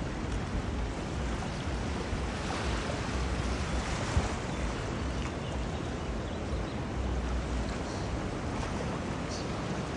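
Steady rushing of the flooded Shenandoah River, with gusts of wind rumbling on the microphone.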